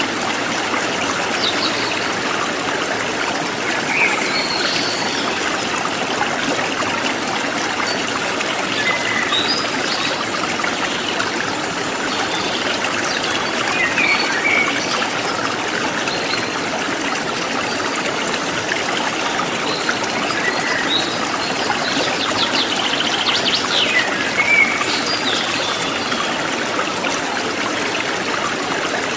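Forest stream flowing and trickling steadily, with short bird chirps now and then.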